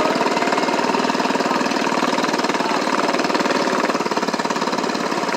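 Tractor engine running steadily, with fast, even firing pulses and a steady whine.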